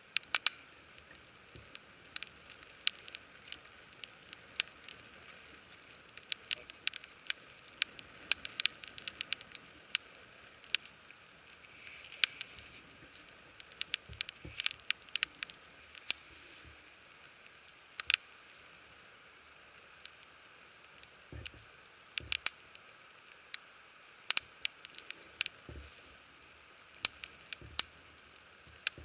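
Wood fire crackling, with many sharp, irregular pops over a faint steady hiss.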